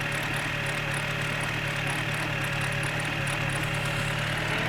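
Car engine idling steadily just after a cold start in severe frost, about minus 25 degrees.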